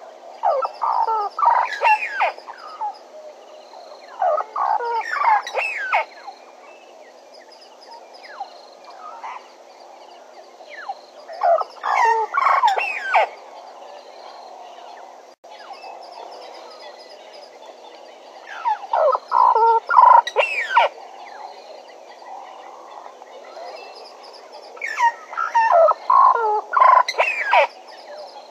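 Bennett's woodpecker calling: five bursts of rapid chattering notes, each about two seconds long, several seconds apart.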